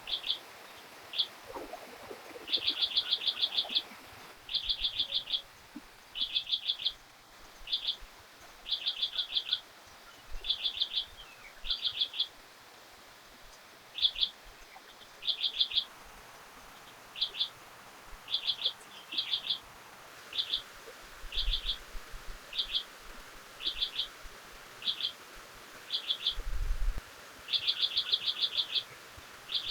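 A bird calling over and over in quick clusters of short, sharp, high chirps, two to about ten notes at a time, with short pauses between clusters.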